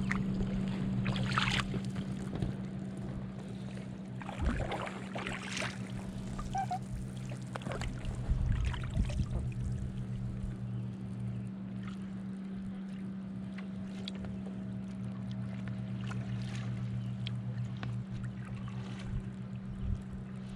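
Kayak paddling: the paddle blades dipping and splashing in the water in irregular strokes, over a steady low hum that fades out about halfway.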